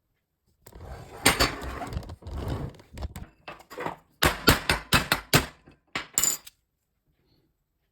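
Small metal tool parts being handled: scraping and rattling starting about a second in, then a quick series of sharp metallic clinks and knocks before it stops.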